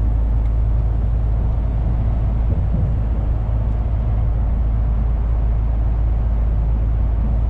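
Truck cab interior while driving: a steady low engine and road rumble.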